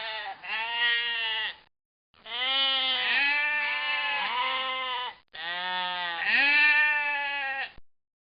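Sheep bleating: several long, wavering baas, one after another with short breaks between them.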